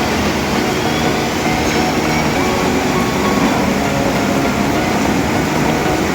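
Steady rumble of vehicle engines under a constant loud rushing noise, with no breaks.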